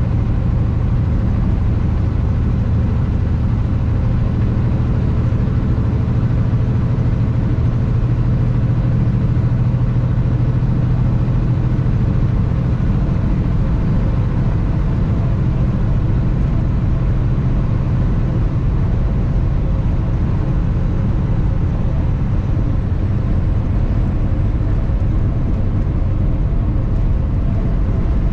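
Diesel engine of a 2021 Kenworth W900 semi truck running steadily, a low, even drone over a constant hiss of road and wind noise.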